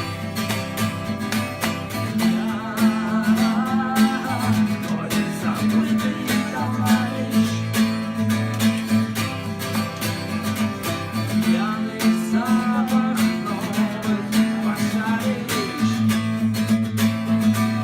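Acoustic guitar strummed in a steady rhythm through an instrumental break between verses. A melodic line that wavers in pitch rises over it about three seconds in, and again around twelve seconds.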